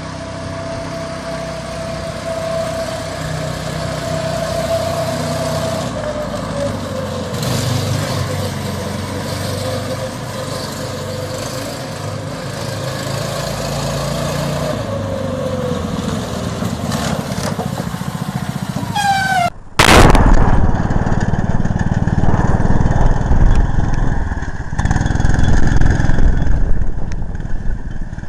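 Small petrol engines running, in two clips. First comes a steady engine with a tone that slides lower. After a sudden cut about twenty seconds in, a louder, rougher-running engine follows.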